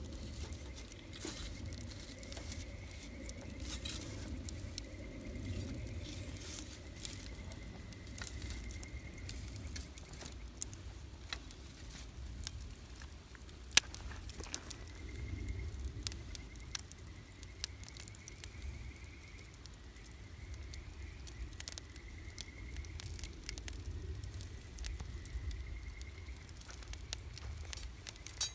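Wood campfire burning, with a steady low rush of flame and frequent small crackles and pops, one sharp loud pop about halfway through. A thin high whistle comes and goes over the fire.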